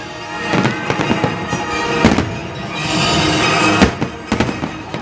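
Aerial fireworks bursting: a series of sharp bangs and crackles, with the loudest bang near the end, heard over music.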